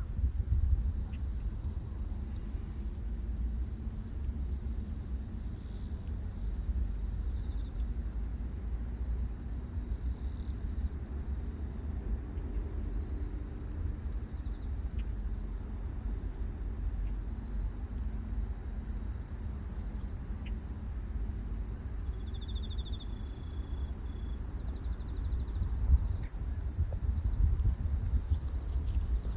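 Grass insects calling: one high, unbroken trill, and a second insect chirping in short pulses about once a second, over a low rumble.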